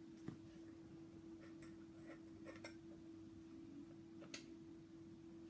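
Near silence: a few faint, sharp metal clicks as a freshly wrapped coil is adjusted and levelled on a rebuildable atomizer deck, over a steady low hum.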